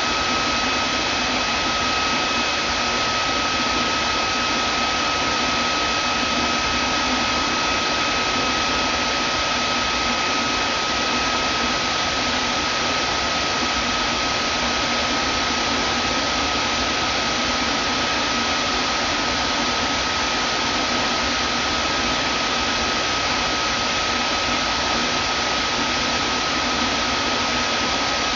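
Vacuum cleaner running steadily: an even rushing noise with a constant high whine, unchanging throughout.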